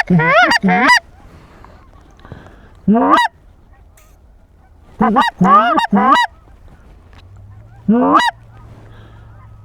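Hand-blown goose call sounding loud groups of short, sharp, upward-rising clucks and chirps that imitate lesser Canada geese: calling to a flock coming in to the decoys. The groups come at the start, about three seconds in, twice around five to six seconds in, and again about eight seconds in.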